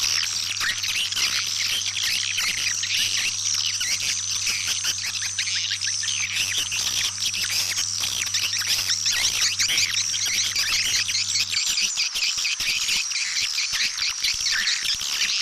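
Several swiftlets twittering: a dense, unbroken stream of rapid high-pitched chirps. This is a swiftlet calling sound, the kind played to lure swiftlets into a nesting house.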